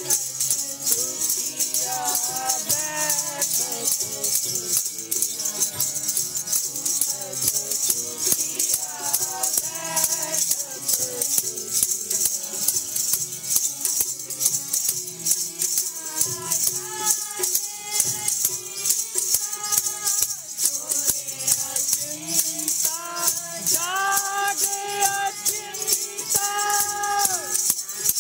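Sikh kirtan music: a voice singing devotional phrases over sustained accompaniment, with a steady, fast jingling shaker-like percussion throughout.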